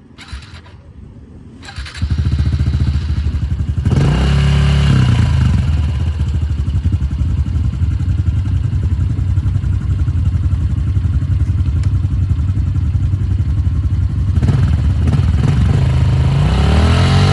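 Honda CRF110's small four-stroke single-cylinder engine catching about two seconds in, then running loudly as it warms up. It is revved up and back down a few times.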